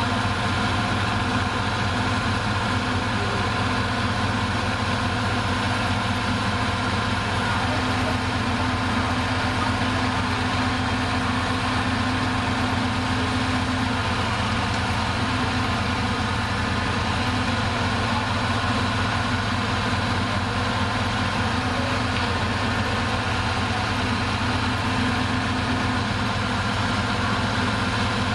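Heavy diesel earth-moving machine's engine idling steadily, with no change in speed.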